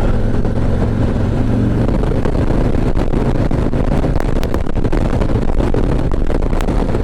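Harley-Davidson Ultra Classic Limited's V-twin engine running steadily under way, with wind rushing over the helmet microphone.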